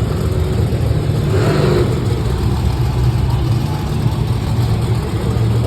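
Large show-vehicle engine running with a steady, loud low rumble.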